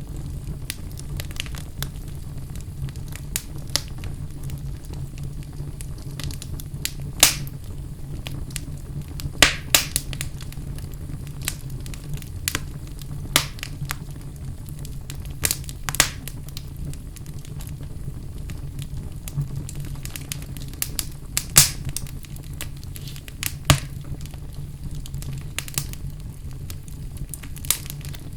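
Wood fire burning in a fireplace: a steady low rumble with sharp, irregular crackles and pops, a few of them louder.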